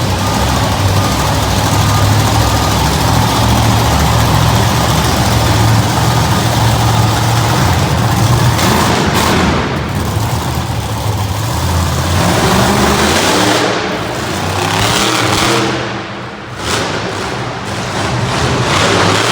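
Monster truck engine running loud and steady for the first dozen seconds, then revving up and down with dips in level in the second half.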